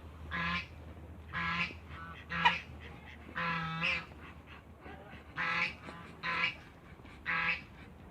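Waterfowl calling in a series of short calls, about one a second, with one longer call near the middle.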